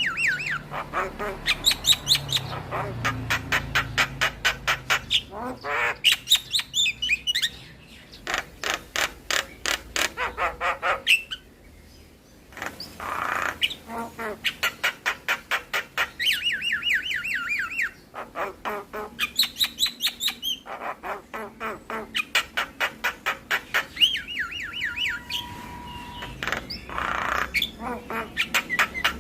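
Javan myna singing a harsh, chattering song: long runs of rapid clicks, about eight a second, mixed with squawks and warbled notes, and a short steady whistle near the end.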